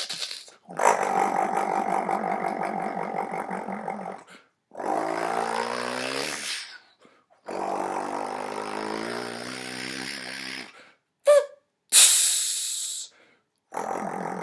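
Person vocally imitating a diesel truck engine: four drawn-out buzzing growls of two to three seconds each with short gaps between them, the second rising in pitch, then a short sharp hiss about twelve seconds in.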